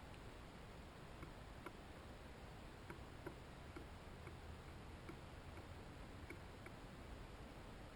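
Faint, irregular clicks and ticks, roughly one every half second, over a low steady hiss: small birds at a seed feeder pecking and cracking seed.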